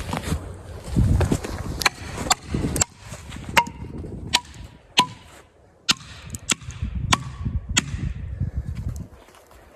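Felling wedges being driven into the saw cut of a standing dead red oak with about a dozen sharp, irregularly spaced blows, some of them ringing briefly.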